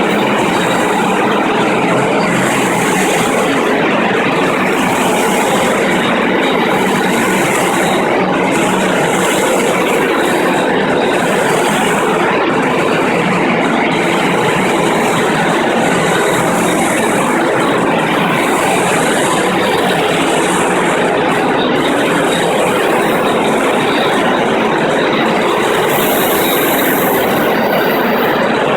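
FastPrep concrete floor grinder running with 16-grit single-rhombus diamond grinding plates, cutting the concrete floor: a loud, steady grinding noise.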